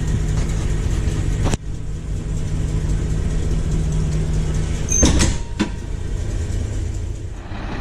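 Carbureted gas school-bus engine idling steadily just after a cold start, warming up on a little choke. A couple of sharp clicks about five seconds in.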